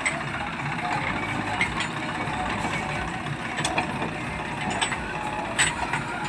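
Diesel engine of a JCB backhoe loader running steadily while working soil, with several sharp metallic clanks, the loudest near the end.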